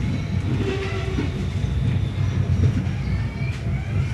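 Passenger train rolling through a yard of switches, heard from inside the carriage: a steady low rumble of the wheels on the rails, with faint brief squeals from the wheels.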